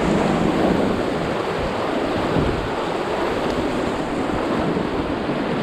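Whitewater of a class 3 rapid rushing steadily around an inflatable raft, with wind buffeting the microphone.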